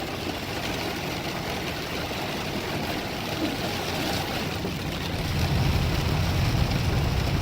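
Car cabin noise in a heavy rainstorm: a steady rush of rain and driving noise. About five seconds in, a low rumble swells and grows louder.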